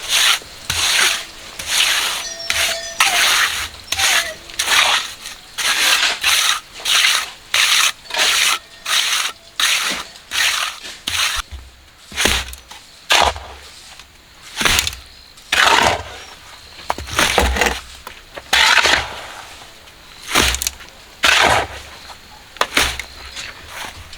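Shovel scraping and scooping through concrete mix in repeated strokes, quick at first, then slower with dull thumps as loads are dropped; the mix is on the dry side.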